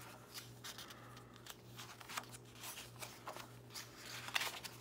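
Magazine pages being leafed through: short, faint paper rustles and flicks, several over a few seconds.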